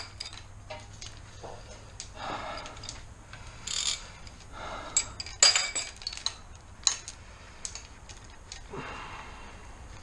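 Metal hand tools and parts clinking and rattling during car repair work: a scattering of sharp metallic clinks, with brief scraping rustles in between.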